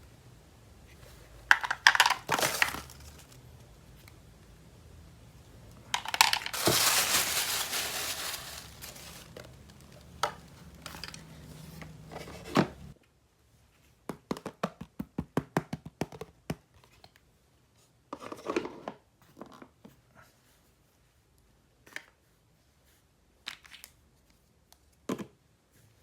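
Toy packaging being opened by hand: tearing and crinkling, with a long continuous tear about six seconds in. After that come quick runs of small clicks and a few separate taps.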